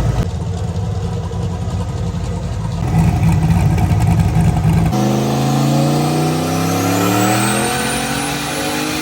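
A car engine running on a chassis dyno: a low, steady rumble for about five seconds, then an abrupt change to a full-throttle pull, the engine note climbing steadily in pitch with a thin high whine rising alongside it.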